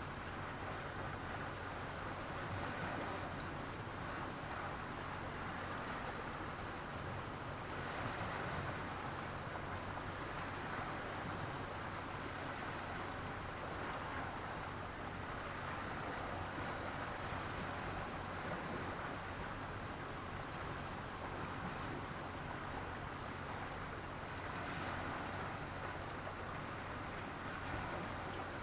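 Sea surf washing onto the beach in a steady rush, swelling louder now and then as waves break and draw back.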